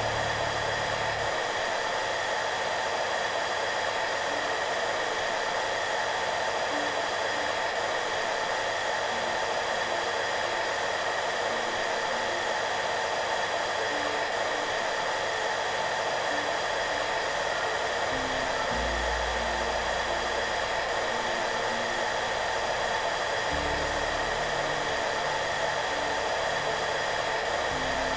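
Hair dryer running steadily: an even rush of blown air with a steady motor whine, unchanging throughout. Soft, low background music notes come and go faintly beneath it.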